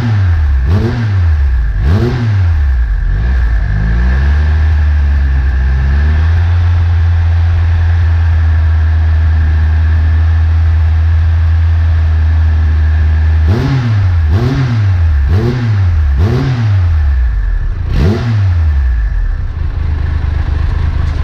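Triumph Trophy SE's 1215 cc three-cylinder engine running through an aftermarket Remus titanium exhaust, blipped in quick revs about once a second. It settles to a steady idle for several seconds, then is blipped again about five times before dropping back to idle.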